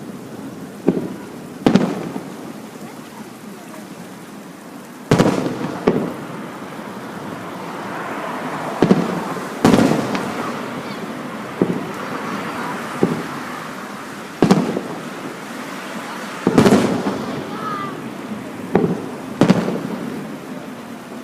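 Aerial fireworks shells bursting: about a dozen loud booms at irregular intervals, some in quick pairs, each trailing off in a rumbling echo.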